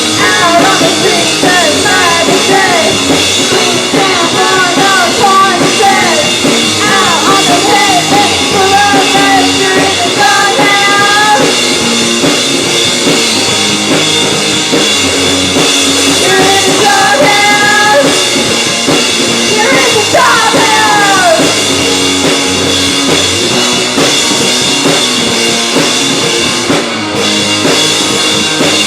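Live rock band playing loudly: drums, guitar and a singer, with the vocal lines dropping out for stretches while the band keeps going.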